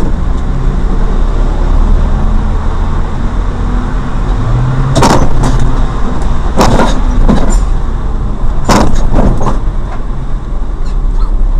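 Car driving, a steady low rumble of engine and road noise picked up by a dash cam, with a few sharp knocks in quick pairs around the middle.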